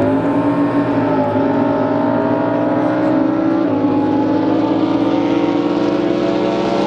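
Drag boat engine running steadily at low speed, its pitch nearly level with a small shift about halfway through.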